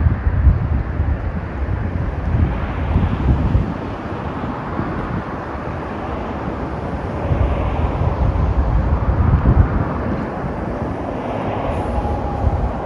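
Vehicles passing on a highway at night: tyre and engine noise swells and fades as cars and trucks go by, over an uneven low rumble.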